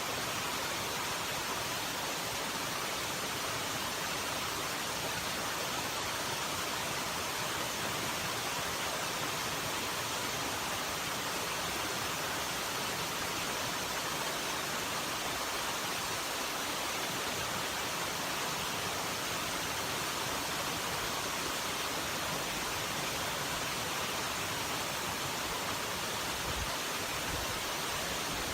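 Rushing water running as a steady, even hiss that never changes, the continuous sound of a stream or waterfall.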